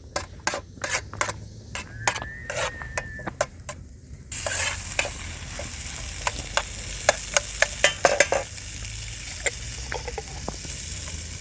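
A utensil clicking and tapping against a pan, then about four seconds in a loud sizzle of frying starts suddenly, with the stirring clicks going on over it.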